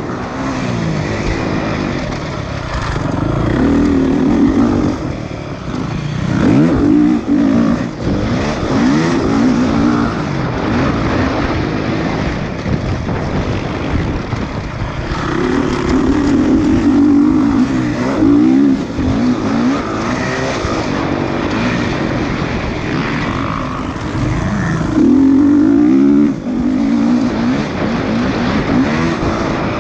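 Motocross dirt bike engines revving up and down, with repeated rising throttle surges and drops as the bikes race.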